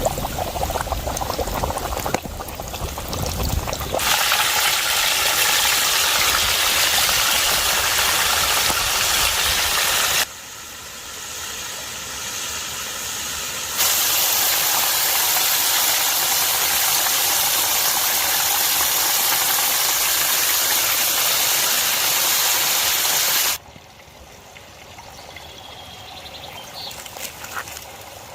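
Rushing stream water, a steady loud hiss that jumps abruptly between louder and quieter stretches several times and is quieter near the end.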